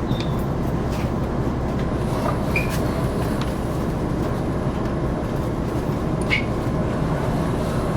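KiHa 261 series diesel railcar running, apparently under power: a steady rumble of engine and wheels heard from inside the passenger car, with a few faint clicks and two brief faint squeaks.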